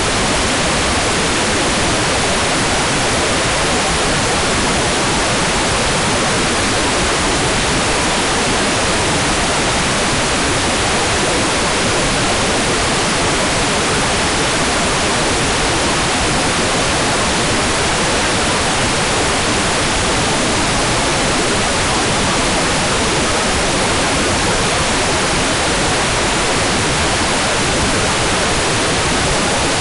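Hair dryer running steadily as a sleep-sound loop: an even, unbroken rushing hiss with no change in pitch or level.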